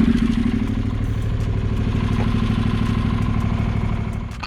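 Honda NC700X's parallel-twin engine idling steadily just after starting, run briefly after a coolant refill. It is shut off near the end.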